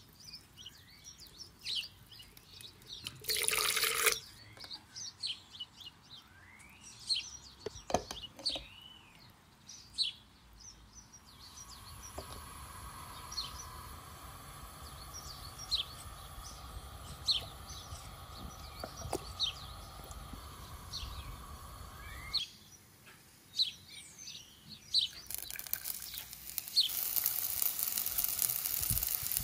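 Birds chirping in the background throughout. About 25 seconds in, a loud, steady sizzle starts as chopped onions hit hot oil in the pot and begin to fry. A brief loud rush comes near the start, and a steady hum runs through the middle.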